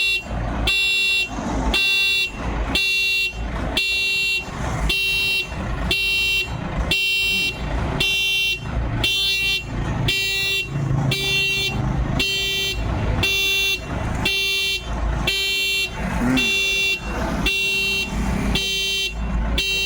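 Electronic reversing alarm beeping in a steady repeating pattern, about one and a half beeps a second, over a low engine rumble.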